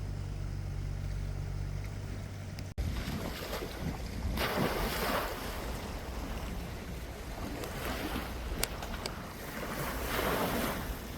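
A steady low hum that breaks off suddenly about three seconds in. It gives way to sea waves washing in with wind buffeting the microphone, the surf swelling up twice.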